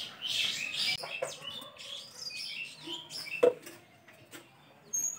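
Birds chirping and twittering, with one sharp knock about three and a half seconds in.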